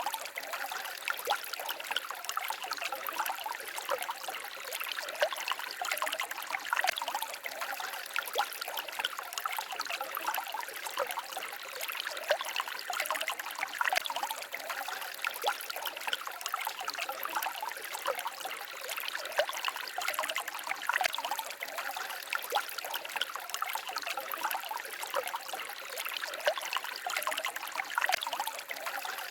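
Small forest stream trickling and babbling over stones, a steady stream of tiny splashes and gurgles.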